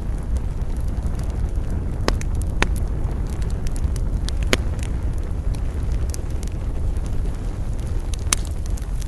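Wood campfire burning, with scattered sharp crackles and pops, the loudest about two, two and a half, four and a half and eight seconds in, over a steady low rumble.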